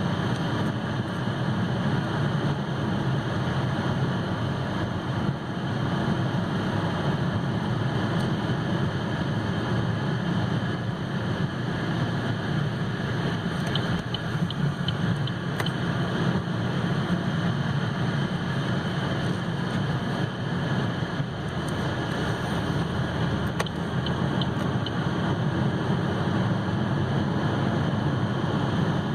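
Steady road and tyre noise with a low engine hum inside the cabin of a 2015 Chevy Malibu driving at road speed.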